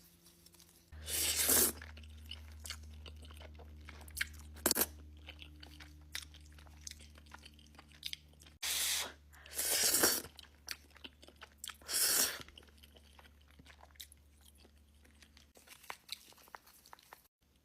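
Close-miked eating sounds: several loud noisy bursts, each under a second, with faint chewing clicks between them, over a low steady hum.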